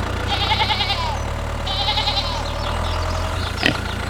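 A sheep bleats twice, each call wavering, over a steady low engine hum that drops out about three and a half seconds in. A short click comes near the end.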